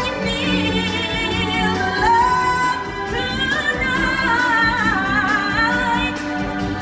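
Live show music: a singer holding long, wavering melodic notes over the accompaniment, with no recognisable lyrics.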